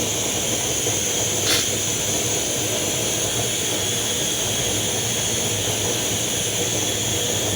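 Gas stove burner flame under a cooking pot, giving a steady hissing rush with a low hum underneath; a single short clink about a second and a half in.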